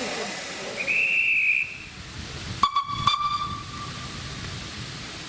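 Hiss of escaping steam from a narrow-gauge steam locomotive, with a short high whistle about a second in. The hiss stops soon after, and two sharp metallic clangs about half a second apart ring on briefly.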